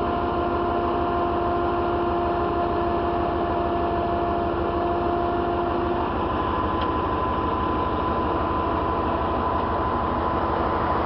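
Heavy tow truck's diesel engine running steadily, with a steady whine over it that shifts to a higher pitch about six seconds in.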